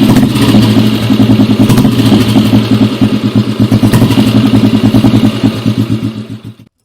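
Rajdoot Bobby motorcycle's single-cylinder two-stroke engine running steadily, fading out near the end.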